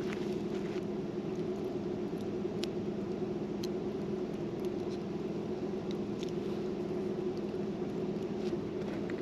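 Wood campfire burning, with scattered sharp crackles and pops over a steady low hum.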